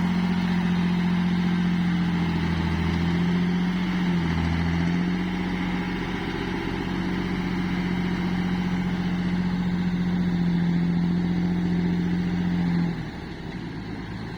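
A vehicle engine running steadily with a constant drone, which drops away abruptly about a second before the end.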